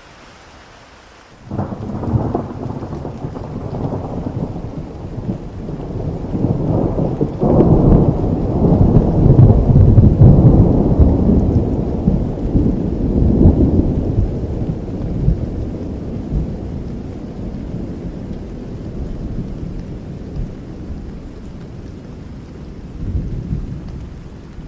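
A long roll of thunder over steady rain. It breaks in suddenly about a second and a half in, builds to its loudest in the middle and slowly rumbles away.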